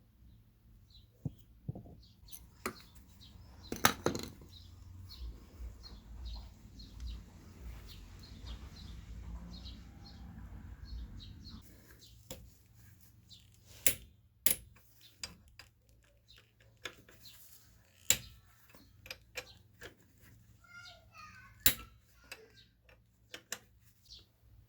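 Tools and metal parts handled during scooter engine repair: scattered sharp clicks and knocks, with a stretch of low rumbling in the first half.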